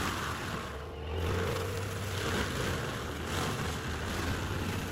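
Heavy stump-removal machine's engine running steadily with a low hum and some mechanical noise.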